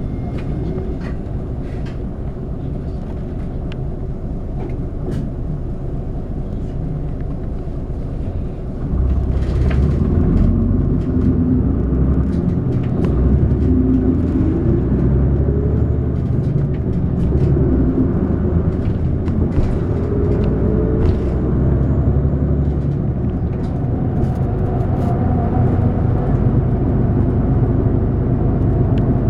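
City bus engine and road rumble heard inside the passenger cabin: steady and quieter for about nine seconds, then louder as the bus accelerates, the engine pitch rising and falling through gear changes. Light rattles come and go.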